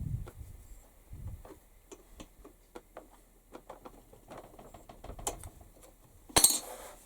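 Small parts and hand tools being handled on a workbench: scattered light clicks and taps, then a short, louder scrape or rustle near the end.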